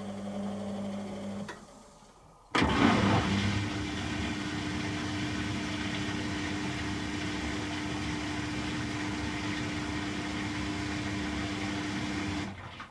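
Beko WTG620M1 washing machine working through its rinse and drain stages: a low hum stops, and after a short pause a loud, steady rush of machine and water noise with a steady tone starts suddenly, runs for about ten seconds, then cuts off.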